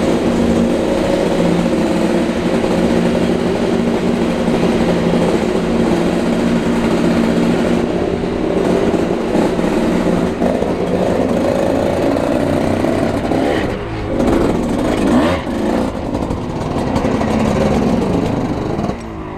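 Dirt bike engine running steadily under way through a tunnel, with its revs rising and falling a few times near the end.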